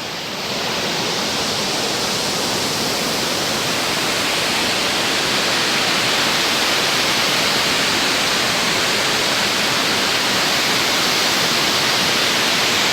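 Waterfall: a steady rush of falling water that swells slightly in the first second or two, then holds even.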